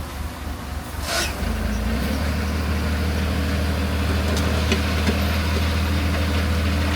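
Heavy diesel engine of earthmoving machinery running steadily with a low hum, settling into a firmer, even note after a brief hiss about a second in; a few light clicks later on.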